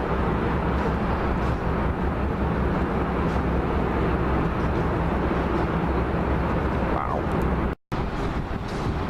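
Jet aircraft engines running as the plane passes, a steady loud roar with a low hum under it. It breaks off for a split second near the end and picks up again.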